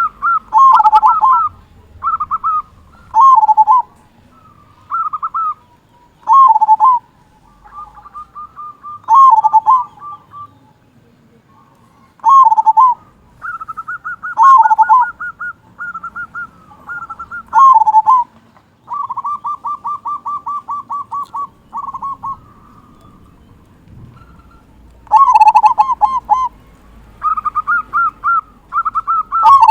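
Local zebra dove (perkutut) cooing over and over in short bubbling phrases ending on a big 'kung' note, with now and then a long fast run of even rolling notes.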